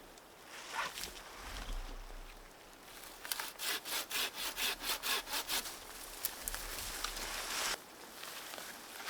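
Hand saw cutting wood in quick back-and-forth strokes, about four a second, then a steadier stretch of sawing that cuts off suddenly near the end.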